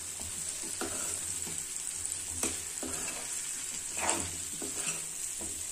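Lotus stem pieces sizzling steadily in hot mustard oil and tomato masala in a kadhai, stirred with a spatula that scrapes and knocks against the pan now and then, most loudly about four seconds in. The pieces are being fried in the masala before any water goes in.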